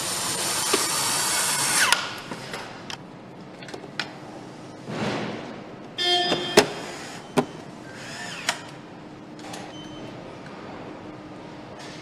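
Power tools on a motorcycle assembly line: a tool whirs loudly for about two seconds, then metal clicks and knocks, a brief whoosh, and a second short tool burst with clanks about six seconds in.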